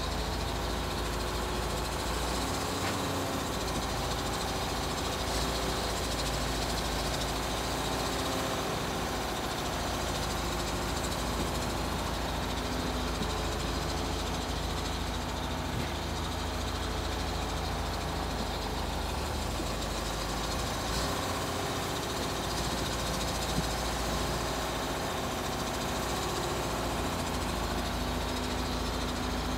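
An engine running steadily at a constant, even level.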